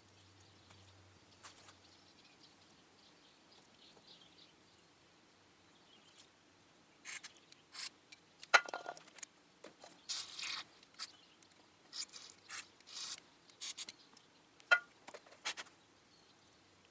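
Irregular clicks, knocks and rubbing from small mower parts being handled and fitted together by hand, starting about seven seconds in after a quiet stretch, with one sharper click near the middle.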